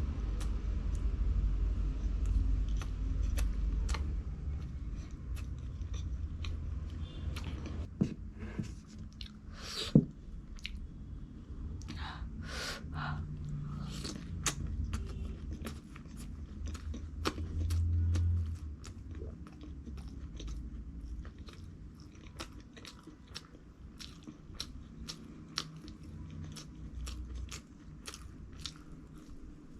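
A person biting and chewing crunchy food: irregular crunches and mouth clicks, with a couple of sharper bites about eight and ten seconds in, over a low steady rumble.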